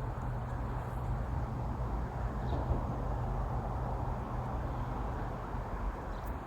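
Steady low outdoor rumble, traffic or wind noise under a river bridge, with no distinct events.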